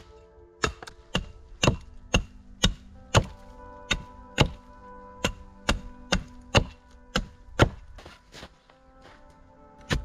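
Axe chopping wood: sharp strikes about twice a second that stop about eight seconds in, with soft background music underneath.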